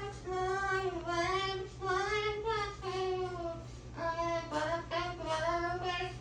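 A cockatoo singing a wordless song in a voice-like tone: a string of held notes, each about half a second to a second long, gliding a little between pitches, with a short break about four seconds in.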